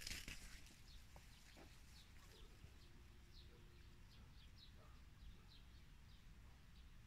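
Faint birds chirping in the distance: many short, high calls repeating irregularly over a low background hum, with a brief rustle at the very start.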